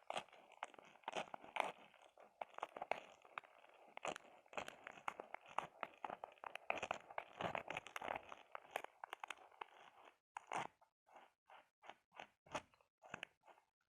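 Fingernails scratching an object close to the microphone, a dense crackly rasp, then about ten seconds in it changes to light separate taps, about three a second.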